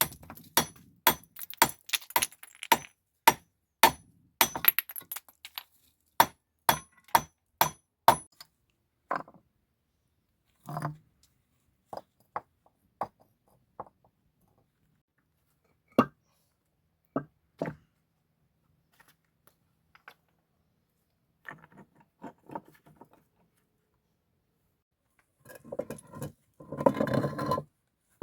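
Hard objects knocking and clinking. For about eight seconds there is a quick run of sharp knocks, about two a second, then only scattered single knocks. A short, denser clatter comes near the end.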